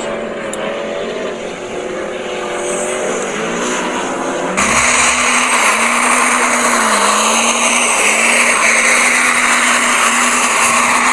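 Monster truck engine revving, its pitch rising and falling, with a sudden jump to louder, harsher engine noise about four and a half seconds in.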